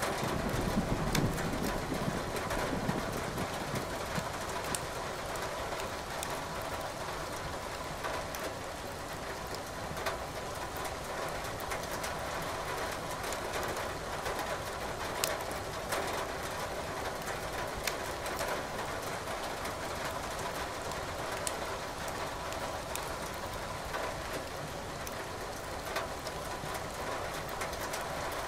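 Steady rain with wood crackling and popping in a fireplace, sharp crackles scattered throughout. A low rumble of thunder dies away in the first few seconds.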